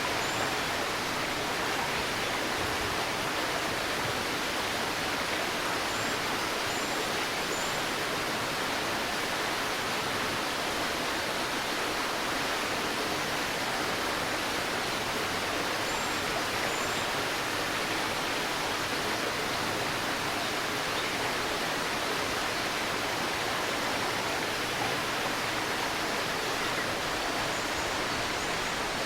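A shallow stream babbling steadily over stones, with a few faint, high, short bird chirps around the start, at about six to seven seconds in, and at about sixteen seconds in.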